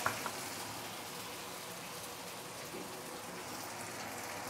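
Pork slices sizzling in hot oil in a wok, a steady hiss, with a couple of wooden spatula scrapes against the pan right at the start.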